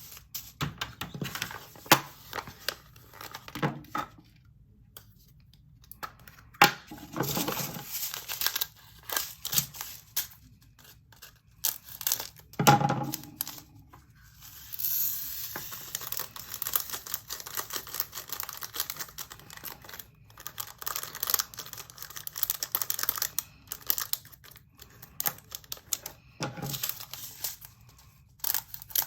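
Small plastic bags and containers of diamond-painting drills being handled: crinkling and tearing of plastic with many small clicks, and a longer rustle about halfway through.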